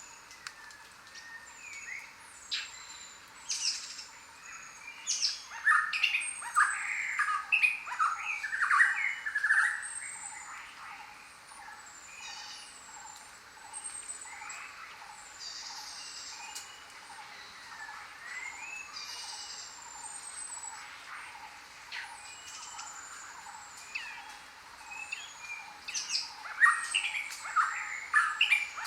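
Several birds calling and chirping over a steady faint background hiss, with short falling whistles and bursts of louder chattering calls twice.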